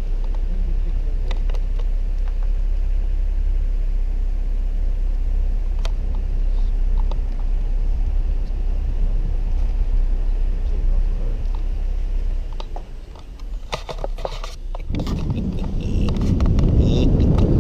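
A car driving, heard from inside the cabin: a steady low road and engine rumble. It dips briefly about three-quarters through, then a louder rushing noise comes in near the end.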